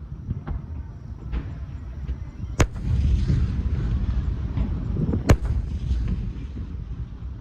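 Aerial fireworks bursting: two sharp, loud bangs about two and a half seconds apart, with fainter pops, over a steady low rumble of further bursts.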